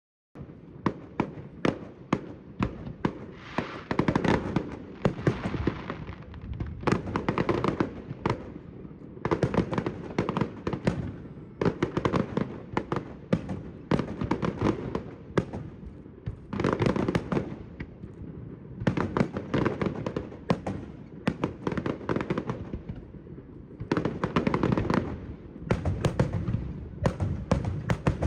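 Fireworks going off in quick succession: many sharp bangs and dense crackling that swell in waves every few seconds.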